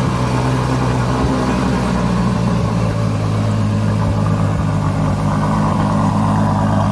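Ferrari FF's 6.3-litre V12 engine running at low, steady revs as the car moves off slowly.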